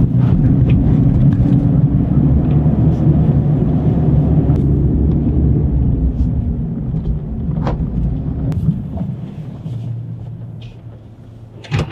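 Car interior noise: a low engine and road rumble while driving, dying away over the last few seconds as the car slows and settles to a steady low idle.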